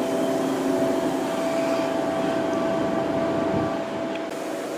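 Trains standing at the platform: a steady mechanical hum and whine with several held tones, from idling and ventilation equipment.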